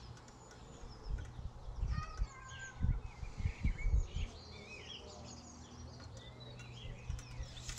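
Small birds chirping and calling, many short quick notes, over a faint steady low hum, with a few low muffled bumps about one to four seconds in.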